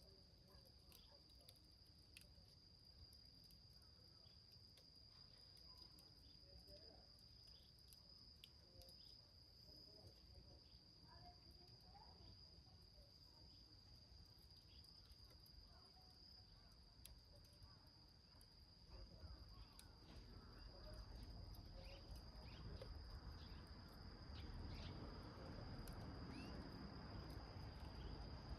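Faint, sparse crackling and ticking of a small wood fire burning in a can, over a steady high-pitched insect trill, likely crickets. About two-thirds in, a low rushing noise swells and stays.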